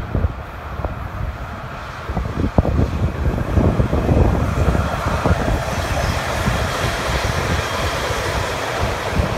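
Freight train hauled by two SBB electric locomotives, an Re 4/4 and an Re 6/6, running past with a steady rush of wheels on rail. The train noise swells about three seconds in as it comes closer. Heavy wind buffeting on the microphone runs under it throughout.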